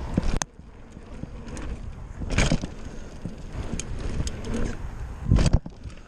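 Bicycle being ridden over a muddy dirt track: tyre noise and frame rattle with scattered knocks, and two louder bumps or bursts, about two and a half and five and a half seconds in.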